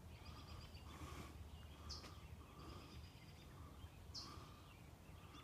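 Faint bird calls repeating about every two seconds over a low, steady background rumble.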